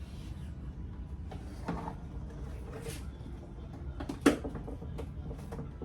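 Hands handling small parts and hardware: scattered light clicks and rustles, with one sharp click about four seconds in.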